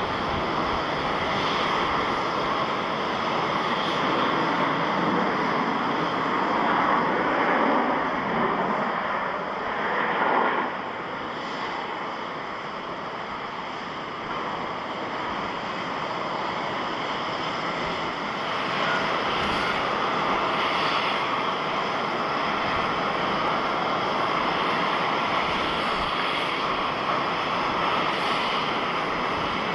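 Jet airliner engines making a steady rushing noise. It swells eight to ten seconds in, dips for a few seconds, then rises and holds steady again.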